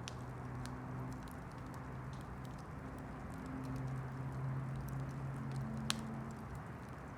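Campfire crackling, with scattered small pops and one sharper pop about six seconds in, over a low steady hum.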